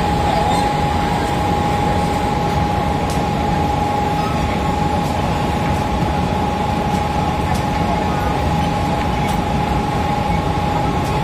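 Mumbai suburban electric local train at a station platform: a steady loud hum carrying one constant high tone, the train's onboard equipment running.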